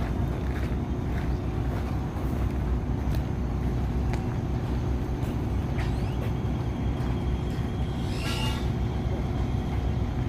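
Steady low rumble of road traffic, with a brief higher-pitched sound about eight seconds in.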